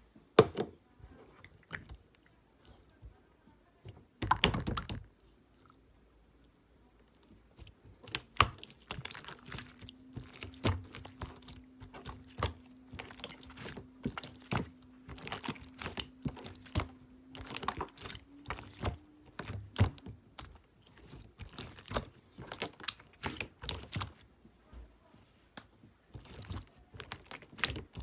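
Slime being squished and pressed by hand, giving many small sharp pops and clicks of trapped air. The pops are sparse at first, with one louder squish about four seconds in, then come thick and fast from about eight seconds in.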